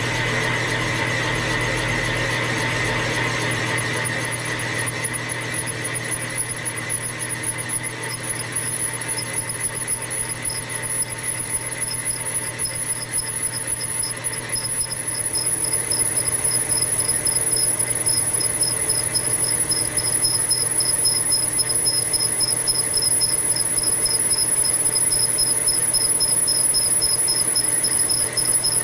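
Boring cut in an engine frame's cylinder bore, the cutting tool squealing over the machine's steady running. A high, pulsing squeal sets in about a third of the way in and grows louder toward the end.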